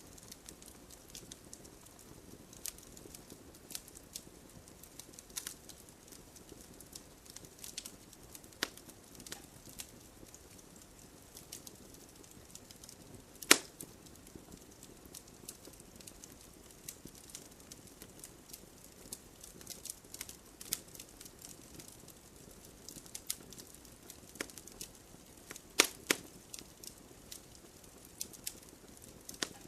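Wood fire crackling: scattered small pops and snaps over a soft hiss of burning, with a few sharper, louder pops, the loudest about halfway through and another pair near the end.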